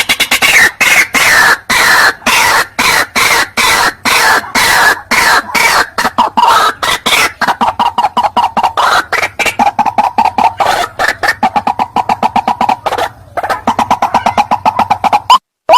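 White-breasted waterhen calling loudly: a fast run of harsh, repeated notes. Near the end the calling breaks off briefly, then gives way to separate rising notes about three a second.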